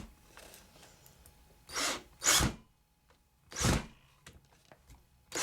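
Cordless drill-driver run in a few short bursts, driving a small self-tapping screw through the metal of tubular model train track.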